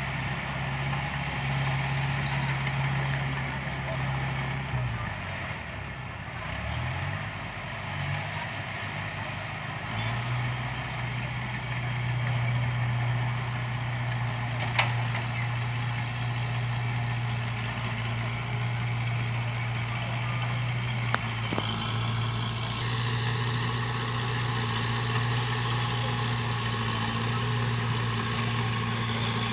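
Diesel engine of a heavy earthmoving machine running steadily. About five seconds in its revs drop and waver, then they pick back up at about ten seconds, with two sharp knocks later on.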